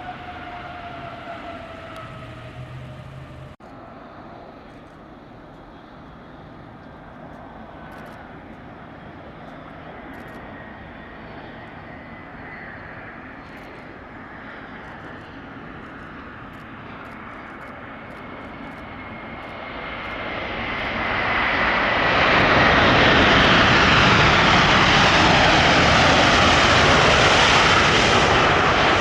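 Jet airliner engines passing close: a rush that swells from about twenty seconds in into a loud steady roar, with a faint whine slowly falling in pitch. In the first few seconds another jet's whine is falling in pitch until it stops at a sudden cut.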